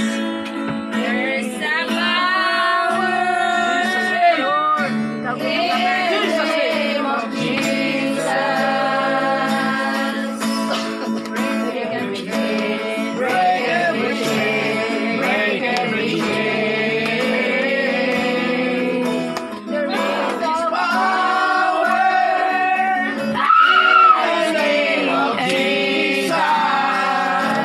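Worship song: voices singing over instrumental accompaniment with a plucked guitar.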